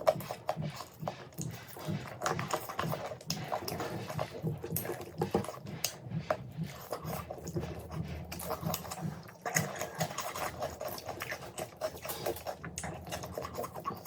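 Close-miked eating sounds: someone chewing food in a steady rhythm, with many wet mouth clicks and smacks.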